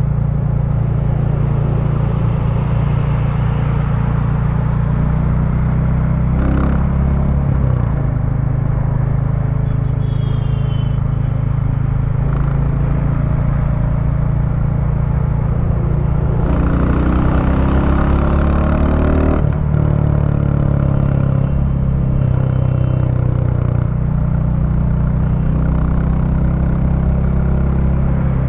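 2023 Royal Enfield Bullet 350's single-cylinder engine running through its stock exhaust while riding. The note is low and steady, its pitch shifting a few times. For about three seconds past the middle it is louder, with more hiss.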